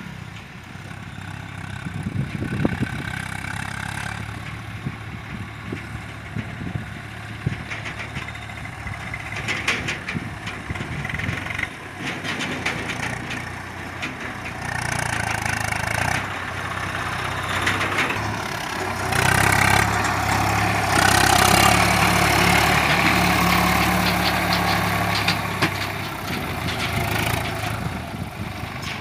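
Diesel tractor engine running, growing louder about two-thirds of the way through and then easing off, as if the tractor draws near and passes.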